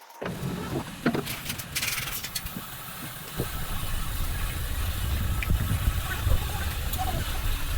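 A machine running with a low, steady rumble, with a few sharp knocks and clicks in the first two seconds and growing louder about three and a half seconds in.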